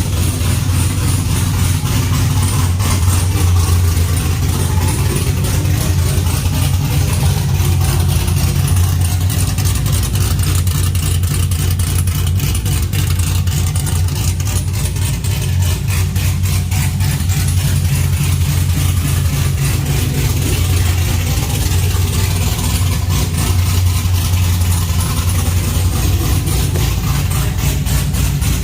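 GMC truck V8 with a Tick Performance Street Heat Stage 2 camshaft, idling steadily through an exhaust with no muffler.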